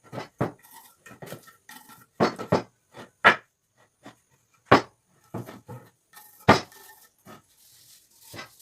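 A series of irregular sharp knocks and clicks, a few louder ones among many light taps, with no steady machine running.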